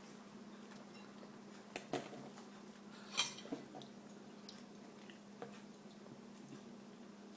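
A few sharp clinks and clicks of tableware at a meal, the loudest about three seconds in, over a steady low hum.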